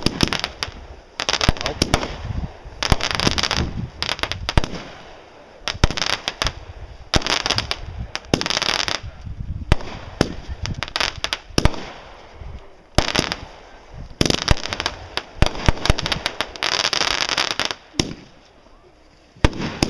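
Aerial fireworks going off in a rapid, irregular barrage: many sharp bangs from bursting shells and salutes, broken by several stretches of crackling lasting up to a second.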